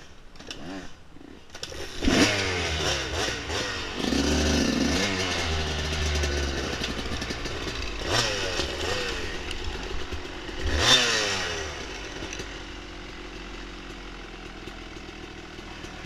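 Dirt bike engine revving up and down under throttle on a trail, with sharp surges about two, eight and eleven seconds in, then easing to a lower, steadier run for the last few seconds.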